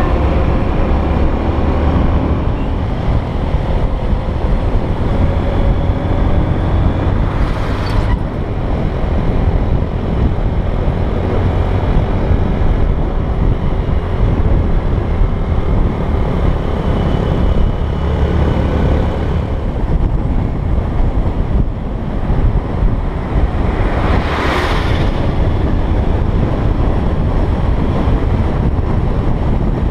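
Honda XR125 single-cylinder motorbike riding along at a steady speed, its engine drone buried under heavy wind buffeting on the microphone. A short hissing swell rises and fades about three-quarters of the way through.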